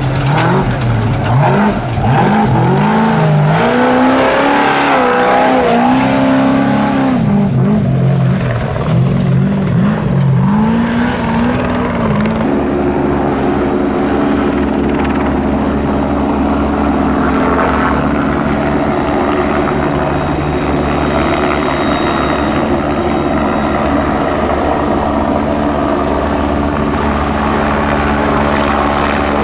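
Trophy Truck race engine revving up and down again and again. About twelve seconds in the sound cuts abruptly to a helicopter's steady drone that holds one pitch.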